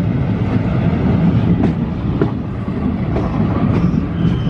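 Train 14033 Jammu Mail running on the track, heard from aboard: a steady rumble of wheels and coaches with scattered sharp clicks.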